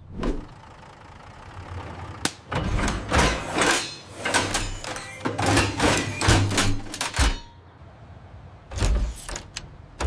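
Cartoon sound effects of a truck transforming into a robot: a rapid run of metal clanks and sliding mechanical clunks, easing off briefly before a few more clanks near the end.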